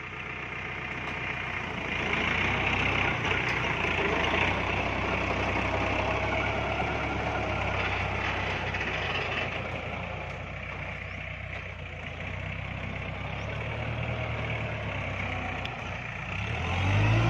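Diesel farm tractor engine running under load while a stuck tractor is towed out of mud on a chain. It gets louder about two seconds in, eases off later, and revs up again near the end.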